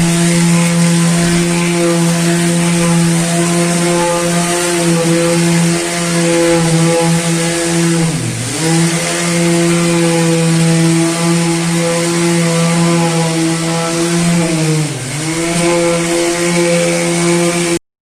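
Power sander dry-sanding body filler on a car body, running steadily with a hum and hiss; its pitch sags briefly twice as it is pressed harder into the work, and it cuts off suddenly near the end.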